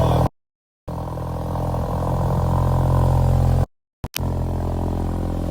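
Car engine idling on a cold start through a freshly fitted MBRP 3-inch cat-back race exhaust, a steady deep exhaust note with no revving. The sound cuts out completely twice, briefly.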